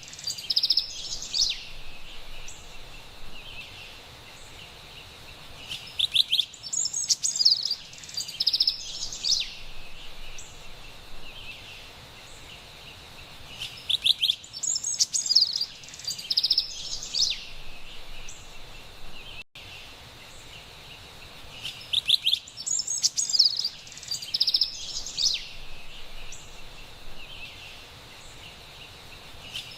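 Carolina wren singing in bursts of quick, repeated high phrases, one bout about every eight seconds, over a steady faint hiss of forest background.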